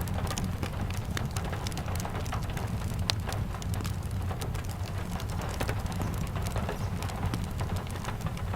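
Steady rain ambience with a low rumble underneath, mixed with frequent sharp crackles and pops from a wood fire; one louder pop about three seconds in.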